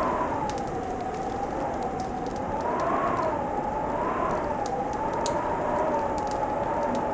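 Fireplace fire crackling with scattered small sharp pops, under a howling winter wind whose whistle slowly rises and falls.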